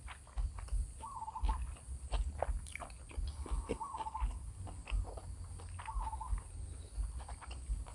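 Close-up eating sounds: a person chewing and slurping instant noodles, with frequent wet smacks and clicks. A short warbling chirp repeats three times, about every two and a half seconds.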